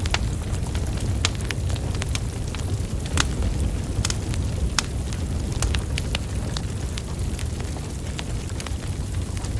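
Wood fire burning, its logs crackling with irregular sharp pops several times a second over a steady low rumble of flames.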